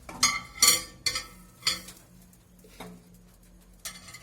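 A pizza tray being set onto the metal high rack of a convection microwave oven: a series of about six sharp metal clinks and clatters, the loudest in the first second.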